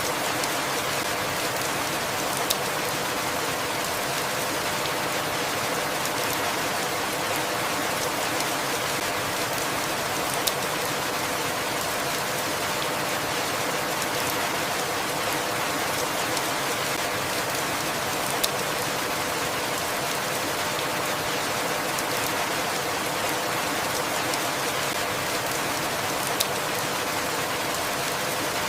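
Steady rainfall, an even hiss with scattered drop ticks, and a sharper tap about every eight seconds.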